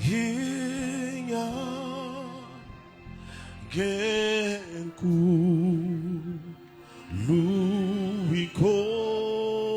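Worship singing: a solo voice sings several phrases of long, held notes with vibrato, sliding up into each one, over soft instrumental backing.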